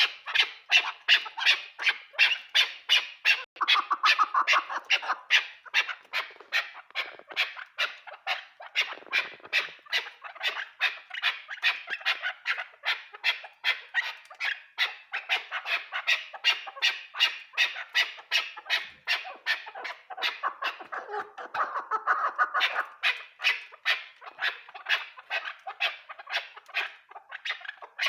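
Chukar partridge calling: a long, steady run of short, sharp repeated notes, about three a second.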